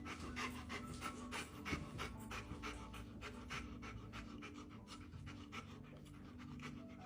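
A dog panting faintly in quick, even breaths, about three a second.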